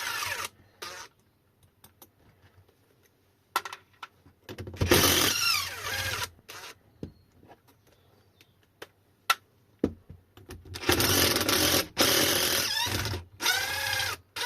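Cordless power driver spinning out hex bolts in three bursts, about five seconds in and twice near the end, its motor pitch rising and falling with the trigger. Sharp clicks and knocks sound in the gaps between.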